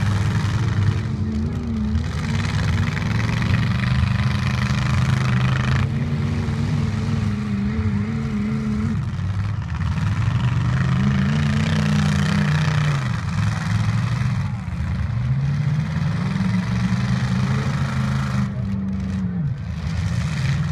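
Demolition-derby truck engines revving hard, rising and falling in pitch again and again, with more than one engine running at once.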